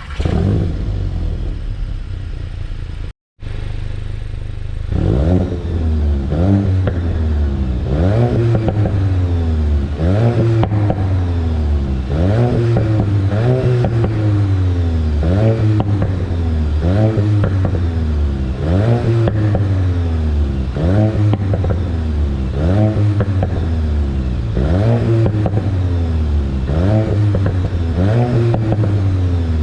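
VW Golf 8 GTI's 2.0-litre turbocharged four-cylinder engine catching and settling at idle, with a brief cut to silence about three seconds in. From about five seconds it is revved again and again in place, each rev rising sharply in pitch and falling back, roughly every one and a half seconds.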